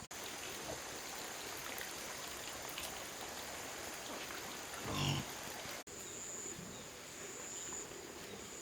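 Outdoor ambience with a steady high insect buzz that pulses in long beats in the second half, and one short animal call about five seconds in.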